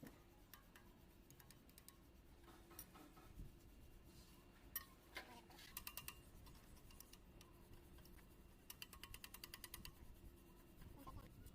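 Faint clicking of hand tools working on engine parts: a sharp tap about five seconds in, then two quick runs of even clicks at about ten a second.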